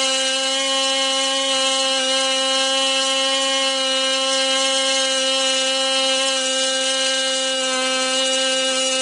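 Norvel BigMig .061, a 1 cc model aircraft glow engine, running flat out on a test run: a steady high-pitched buzz that holds one pitch.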